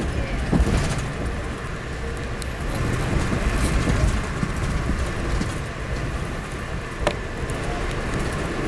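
Amtrak passenger train running, heard from inside the coach: a steady low rumble and rattle of the moving car, with a sharp click about seven seconds in.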